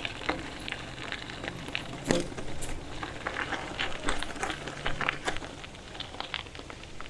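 Bicycle rolling downhill along a trail, with irregular crackling and clicking from the tyres over the rough ground; one sharper click about two seconds in.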